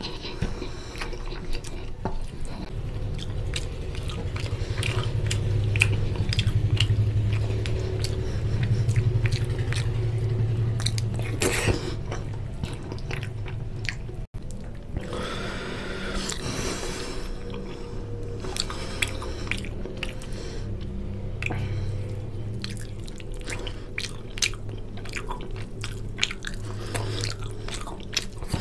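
A person chewing mouthfuls of katla fish curry and rice with wet smacking and many short clicks. The sound cuts out for an instant about halfway.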